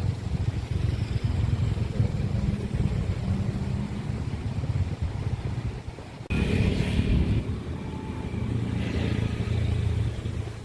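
Low, steady engine rumble of a passing diesel train. It breaks off sharply about six seconds in and comes straight back with more hiss and a higher ringing tone over the rumble.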